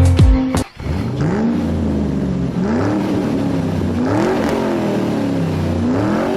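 Kawasaki 650 parallel-twin motorcycle engine running. Its pitch rises and falls about four times as the throttle is rolled on and eased off. A guitar music track cuts off within the first second.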